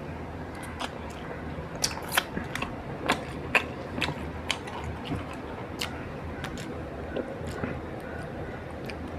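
Close-miked chewing of roti with pithla: irregular sharp mouth clicks and smacks over a soft steady background, the loudest about two to four seconds in.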